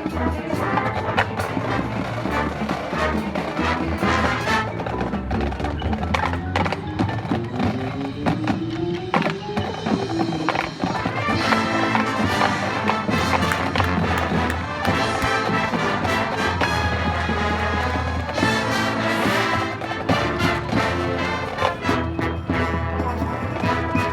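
High school marching band playing its competition field show, with brass and winds over drums and mallet percussion and many sharp percussion hits. About six to ten seconds in, several lines rise together in pitch.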